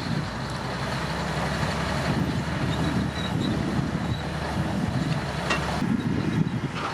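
Komatsu D65P bulldozer's diesel engine running steadily, a continuous low rumble.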